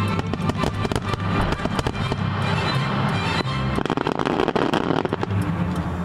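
Fireworks popping and crackling over music, with a dense spell of crackling about three and a half seconds in.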